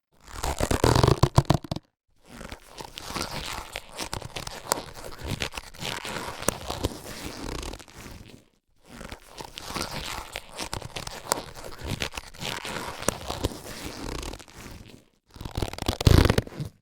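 Latex surgical gloves being handled: loud rubbery stretching squeaks at the start and again near the end, with long spells of crinkly rustling and small clicks between them, broken by a few brief silent gaps.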